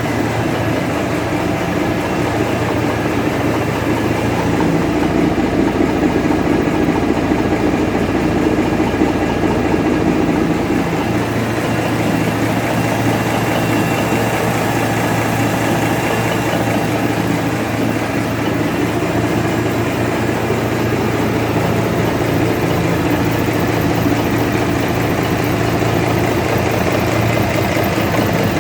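Cummins NTA855-C280 inline-six turbocharged diesel running steadily during its break-in run after repair, a little louder for a few seconds near the start.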